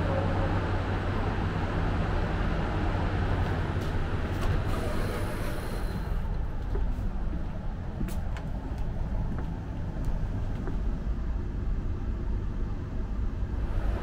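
Steady low hum and rumble of a standing train at a station, heard from the platform and then inside the carriage, with a few faint clicks about eight seconds in.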